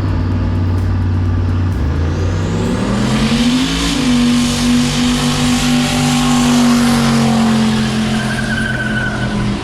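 Car engine running steadily, then revving up hard about two seconds in and holding high revs as the car accelerates, with a rushing hiss over it.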